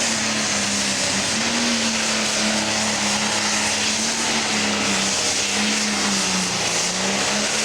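Pro stock pulling tractor's turbocharged diesel engine running at full power on a pull, a loud, steady drone whose pitch wavers only slightly.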